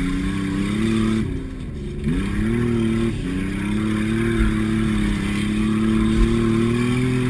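Derby car's engine heard from inside the cabin, driven hard across rough ground. The revs climb, fall away sharply about a second in, pick up again and drop once more around three seconds, then slowly build.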